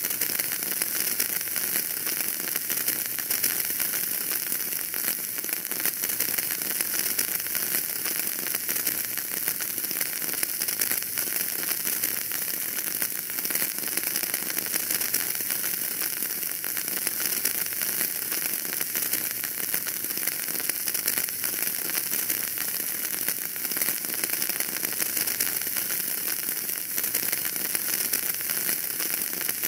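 Wood fire burning in a fireplace, a dense, steady crackle of many small pops over a soft hiss.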